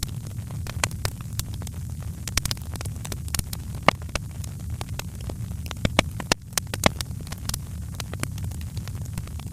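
Wood fire crackling: frequent irregular sharp pops and snaps over a steady low rumble, with a few louder pops about four and seven seconds in.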